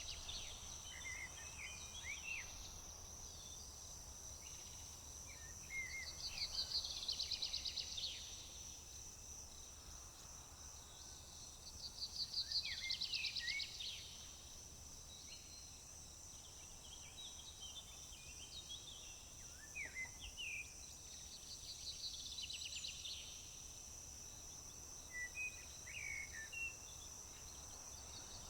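A steady high-pitched drone of insects, likely crickets, runs under songbirds. A rapid trilled song phrase comes three times, each about two seconds long, with scattered short chirps and whistles between.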